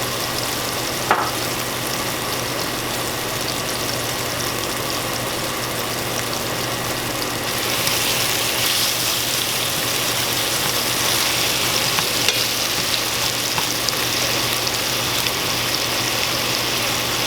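Chicken breast strips frying in olive oil in a pan, a steady sizzle that gets louder about seven and a half seconds in as the chicken goes into the hot oil. A steady low hum runs underneath, with a single sharp click about a second in.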